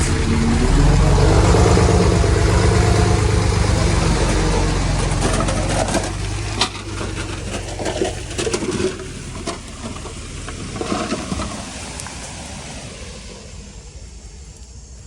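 Heavy earthmoving machine's diesel engine running under load, its pitch climbing in the first couple of seconds. About six seconds in, the engine drops back and a scatter of sharp knocks and clatters follows while the sound fades.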